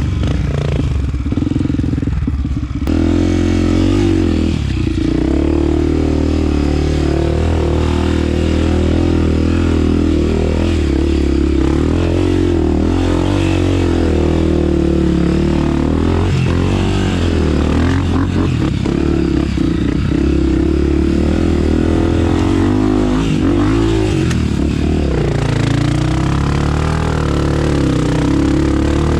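Honda CRF250F dirt bike's single-cylinder four-stroke engine running under a rider, its pitch rising and falling as the throttle is worked on a trail. It is heard close up from a helmet-mounted camera. The engine is lighter for the first couple of seconds and picks up about three seconds in.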